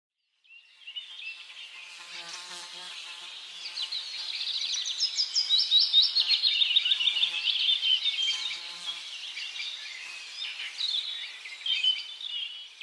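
A chorus of small birds chirping: many quick, high, falling chirps overlapping. It fades in from silence and is loudest around the middle.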